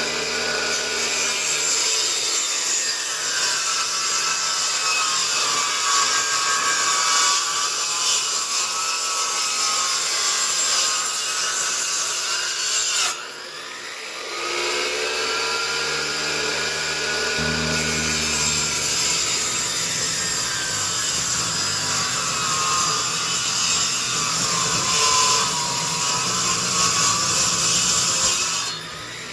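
Table saw ripping 2x4 lumber lengthwise into 2x2s, the blade's pitch sagging and recovering as it cuts through the wood. There is a short lull about 13 seconds in, then another cut.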